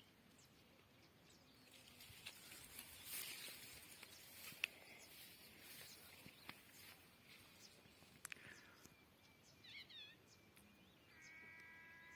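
Faint farmyard ambience: small birds chirping about ten seconds in, then near the end a long, drawn-out bleat from a farm animal.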